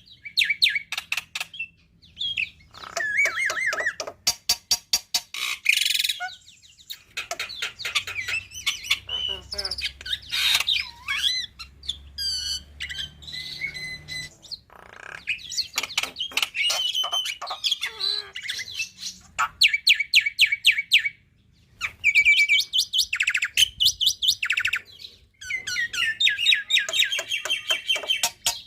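Black-winged myna (jalak putih) singing a long, varied song laced with mimicked phrases: fast trains of repeated sharp notes, chattering and whistled glides, with brief pauses about 21 and 25 seconds in.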